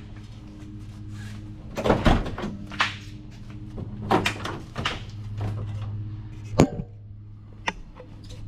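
Truck cab door being opened, with several sharp clunks and knocks from the door and its handling, over a steady low hum.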